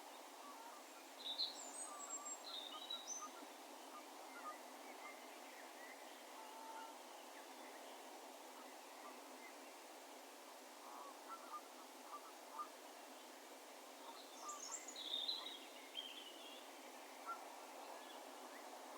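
Distant songbirds calling, with echo: two short flurries of high chirps and warbles, about a second in and again about fourteen seconds in, with scattered faint notes between. Under them runs a steady, faint outdoor background hiss.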